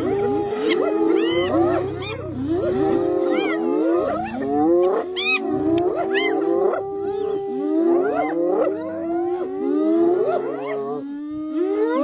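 A pack of spotted hyenas calling over one another while mobbing a lion: many overlapping rising and falling squeals, whoops and high giggles, with low growls underneath.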